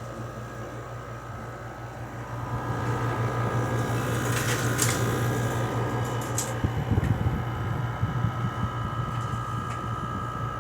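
LG 6000 BTU window air conditioner running, with the steady hum of the compressor and the rush of the fan plus a steady whine; it grows louder about two and a half seconds in. A few brief hisses and low thumps come between about four and seven seconds in.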